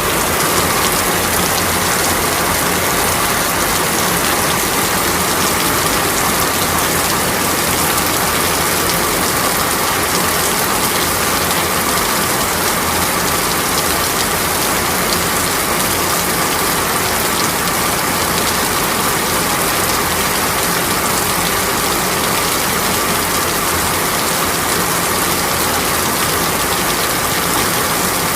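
Heavy rain falling in a steady, dense hiss, with a faint steady tone under it.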